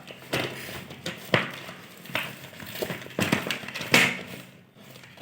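Irregular clicks, taps and knocks of plastic toy packaging being handled as a toy car is taken out of its box, the loudest knock about four seconds in.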